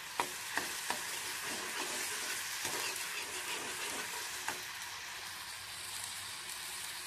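Ginger-garlic paste with cumin seeds sizzling in hot oil in a kadai, stirred with a flat metal spatula. The spatula clicks and scrapes against the pan a few times in the first half, then the clicks thin out while the frying hiss carries on.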